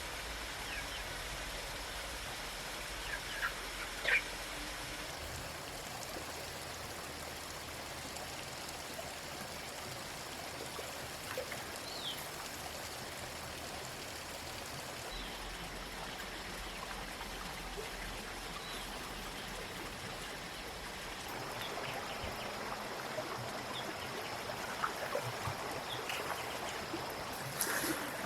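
Steady rush of flowing water, with a few faint clicks and taps scattered through it.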